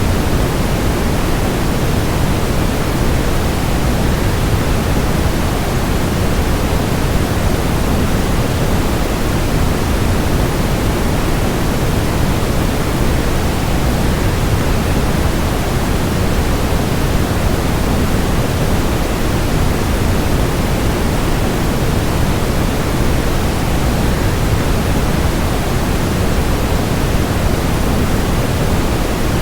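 Steady rushing noise of a waterfall blended with white noise: an even, unchanging hiss, heaviest in the low end.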